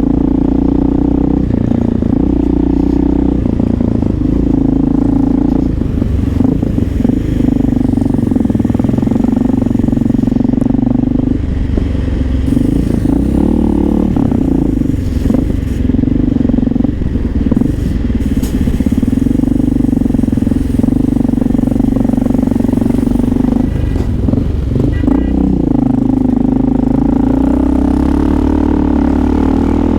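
Honda XR650L's single-cylinder four-stroke engine, fitted with an aftermarket exhaust, purring with a deep rumble while being ridden. The note holds steady, dropping and changing pitch briefly a few times as the rider shifts or rolls off the throttle.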